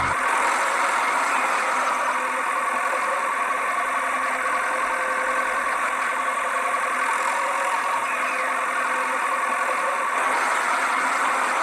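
Steady engine-like running noise, even and unchanging, with almost no deep rumble.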